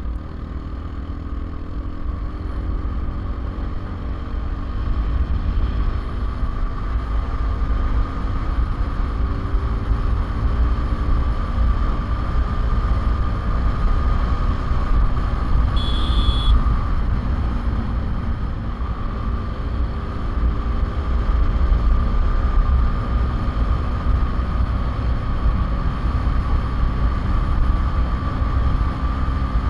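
Motorcycle engine running steadily at road speed, with heavy wind rumble on the microphone. A short high beep comes about halfway through.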